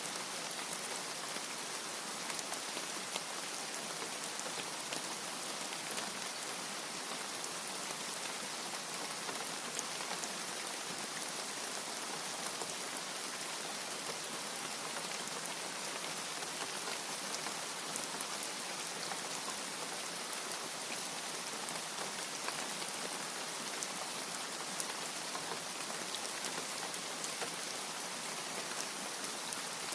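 Steady rain falling, an even hiss with scattered fine drop ticks and no thunder.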